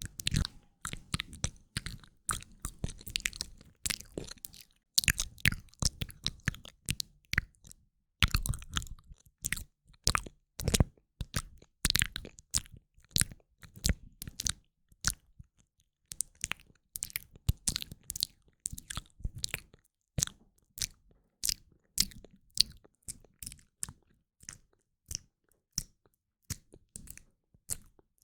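ASMR mouth sounds close to the microphone: quick, wet mouth clicks and smacks, several a second in an uneven rhythm, with brief pauses.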